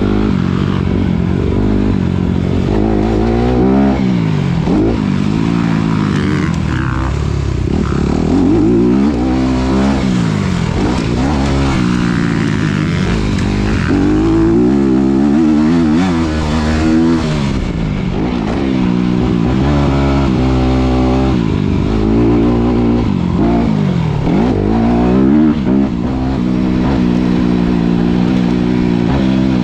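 Honda CRF250RX single-cylinder four-stroke dirt bike engine being ridden hard, its pitch repeatedly climbing under throttle and dropping off as the rider accelerates, shifts and backs off around the track.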